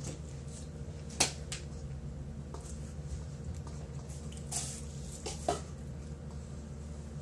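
A person eating fast food close to the microphone: a few short, sharp clicks and wet mouth sounds, the loudest about a second in, over a steady low hum.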